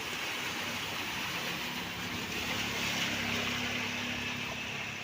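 A motor vehicle passing on a flooded road: the low sound of its engine under a hiss of water from the wheels, swelling about halfway through and easing off.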